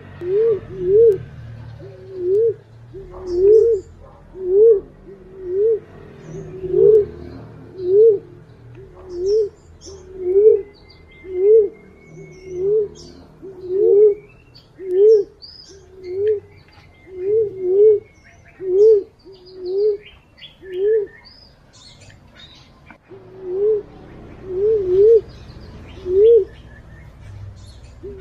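A wild forest pigeon cooing over and over, about once a second, each coo a short note that rises and falls. A few come in quick pairs, and there is a brief pause about three quarters of the way through. Faint chirps of small birds sound in the background. This is the pigeon call that bird trappers use as a lure.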